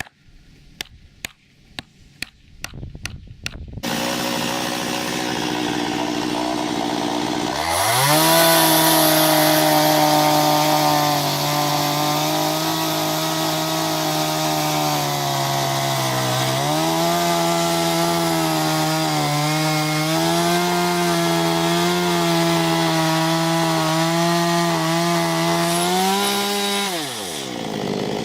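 A quick run of about eight sharp knocks, then a small two-stroke chainsaw revs up and cuts into an ash trunk at full throttle for close to twenty seconds. Its pitch sags under load for a few seconds in the middle and picks up again. Near the end the throttle is released and the pitch falls away.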